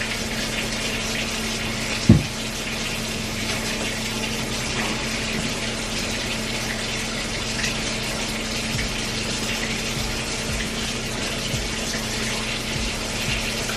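Tap water running steadily into a kitchen sink, with a steady low hum under it and a single knock about two seconds in.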